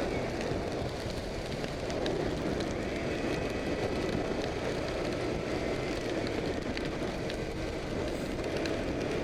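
KTM RC motorcycle riding on a wet road in rain: a steady rush of wind and tyre spray, with the engine running underneath.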